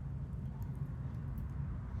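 Low, steady rumble of a distant train with a faint hum in it, over a few light crackles from a wood fire in a chiminea.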